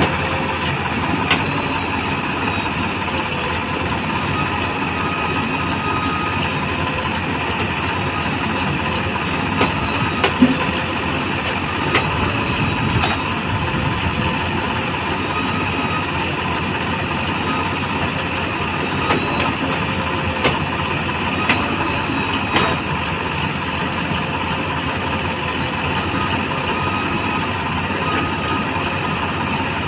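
Diesel engines of a backhoe loader and tractors running steadily at a mud-loading site, with a few short knocks.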